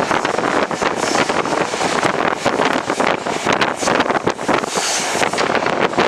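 Wind rushing over the microphone with a steady run of irregular clatter and knocks from a passenger train of ICF coaches moving at speed.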